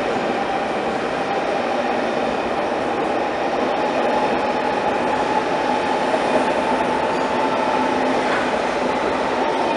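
Deutsche Bahn ICE high-speed train pulling out along an underground station platform: a steady rolling rumble with a tone that climbs slowly as the train gathers speed.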